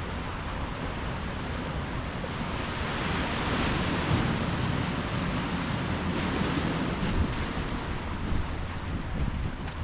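Ocean surf: waves breaking and washing in, swelling to its loudest about four seconds in, then easing back.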